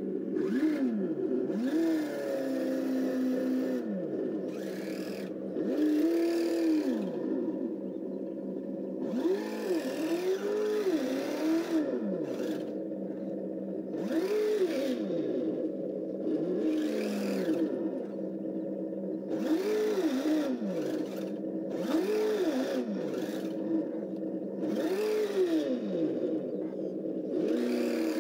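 Electronic engine-sound module (ESS) in a 1/12 Kyosho Blizzard DX RC snowcat, playing a simulated engine that revs up and drops back again about every two to three seconds as the throttle is worked. Bursts of hiss come and go alongside the revs.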